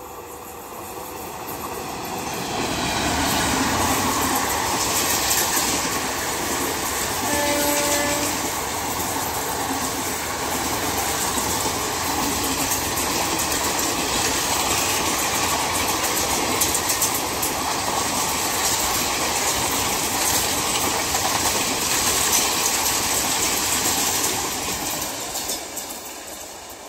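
Express train passing close by at high speed: a rush and clatter of coach wheels on the rails that swells over the first few seconds, holds steady, and fades near the end as the rear coaches go by. There is a short horn blast about seven seconds in.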